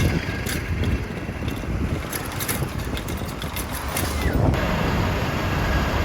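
Vehicle engines running and street traffic noise, with wind buffeting the microphone and a few sharp clicks; the background changes abruptly about four and a half seconds in.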